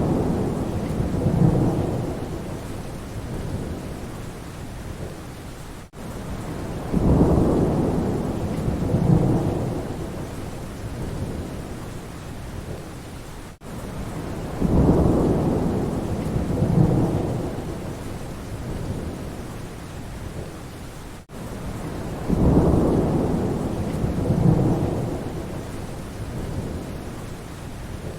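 Steady rain with low rumbles of thunder, two swells close together in each cycle. A short rain-and-thunder recording loops about every eight seconds, and each join shows as a brief gap in the sound.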